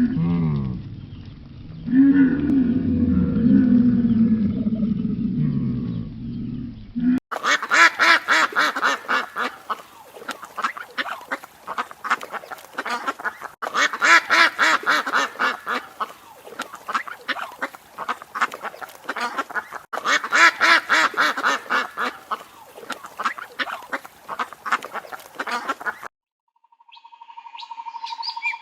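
Animal calls from several spliced clips: a low, drawn-out cry in the first seven seconds, then long runs of fast, repeated quack-like calls that stop abruptly about two seconds before the end.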